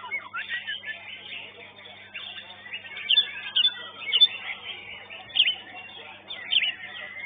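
Many caged songbirds singing at once: overlapping sharp chirps and quick whistled sweeps, with the loudest calls coming in short bursts from about halfway through. A steady low hum sits underneath.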